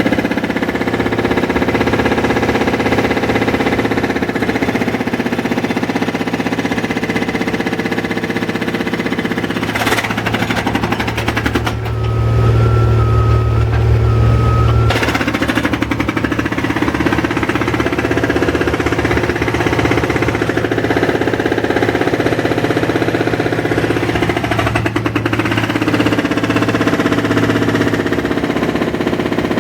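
Construction-site machinery: a breaker hammering rapidly and without pause over a running engine, with a louder stretch and a steady tone for about three seconds near the middle.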